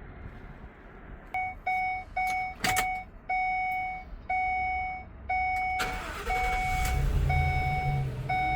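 Ford dashboard warning chime dinging over and over, fast at first and then about once a second, with a click from the ignition. About six seconds in, the truck's 6.2-litre V8 cranks, catches and settles into a steady idle while the chime keeps sounding.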